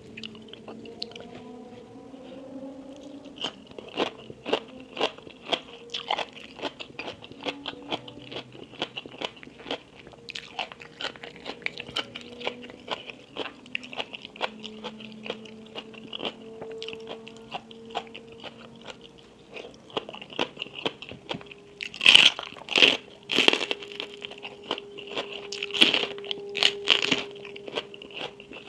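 Close-miked crunching and chewing of crisp food: a fast run of crunchy bites and chews starting a few seconds in, with the loudest crunches about three-quarters of the way through.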